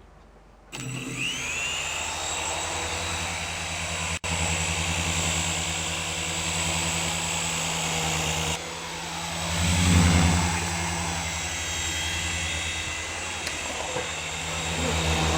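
Skytech M3 toy remote-control helicopter's electric motors and rotors spinning up with a short rising whine just under a second in, then running with a steady buzzing hum that swells louder for a moment about ten seconds in.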